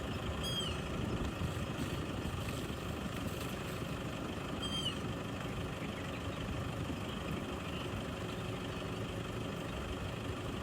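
Safari vehicle's engine idling steadily. Two short high chirps about four seconds apart.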